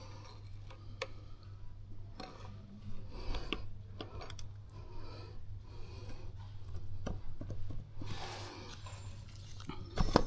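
Hands handling new rocker arms for an Audi/Porsche EA839 V6 cylinder head: scattered light clicks and rubbing of small metal parts, with a sharper click near the end. A steady low hum runs underneath.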